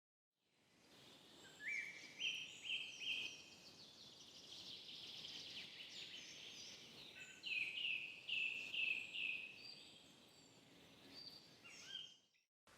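Birdsong: runs of four or five repeated short clear notes, with a fast, dense warble between them, over a faint background hiss. It fades in at the start and cuts off abruptly just before the end.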